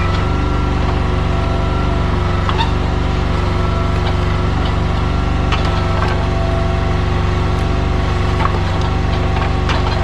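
Excavator diesel engine running steadily under hydraulic load, with scattered knocks and scrapes from the bucket working a trench, more of them near the end.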